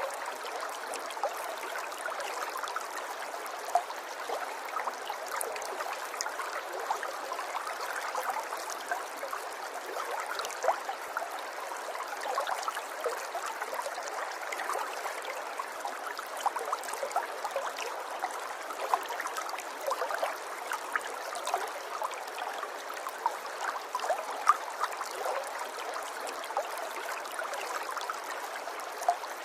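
River water flowing over stones, a steady babbling with many small splashes and trickles.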